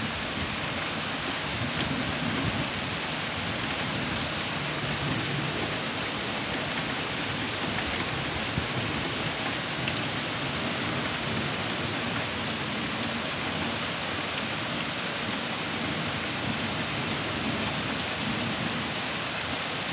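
Steady rain falling, with low rumbles of thunder now and then.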